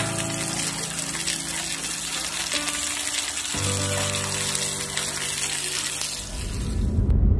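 Chicken breast sizzling in oil in a small rectangular frying pan, a steady hiss, under background music. Near the end the sizzle stops and a low rumble comes in.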